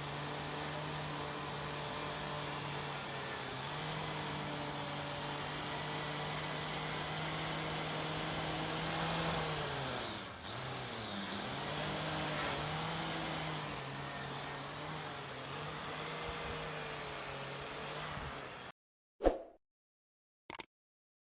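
A power tool's electric motor running steadily, its pitch sagging and recovering several times about halfway through as it is pressed into work, then switched off near the end, followed by a few sharp metallic clicks.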